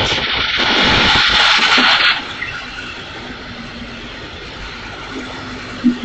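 A train passing close by at speed: a loud rush of wheel and air noise that cuts off abruptly about two seconds in as the train clears. Afterwards a fainter steady tone, and a short knock near the end.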